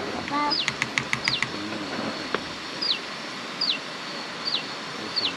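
A bird calling a short whistled note that drops in pitch, repeated about six times, over the steady rush of a river. A few sharp clicks come about a second in.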